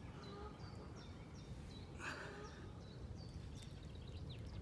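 Faint birdsong outdoors: many short, high chirps repeating over a steady low rumble, with a brief noisy burst about two seconds in.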